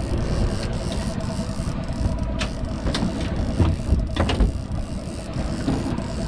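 A fishing boat's motor running with a low rumble and a steady whine, with a few sharp knocks and clicks over it.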